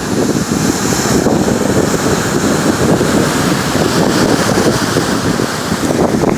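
Rough ocean surf rolling in and breaking, with strong wind buffeting the microphone in a steady, loud rush of noise.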